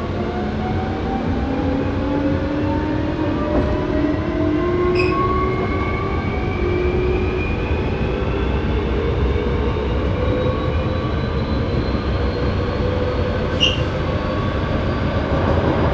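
Running sound inside a Hankyu 7300 series electric train car accelerating: several traction-motor tones climb steadily in pitch over the steady rumble of the wheels on the rails. This car is known for an unusual running noise. Two short clicks come about 5 and 14 seconds in.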